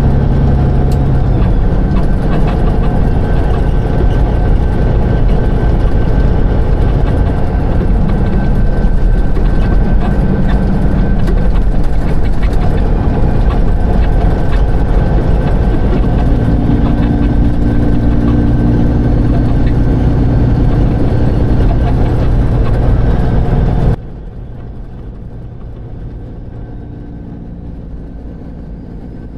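Semi-truck engine running while driving down the road, loud and steady with a few shifts in pitch. The sound drops suddenly to a much quieter level about five seconds before the end.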